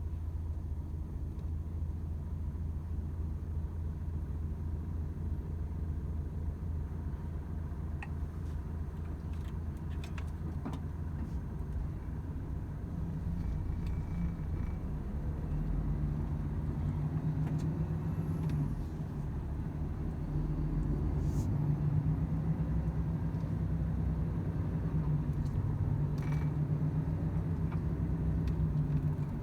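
Volvo FH 500 truck's 13-litre straight-six diesel and road noise running as a steady low drone on the move. About halfway through the engine note rises and gets a little louder, with a few faint clicks.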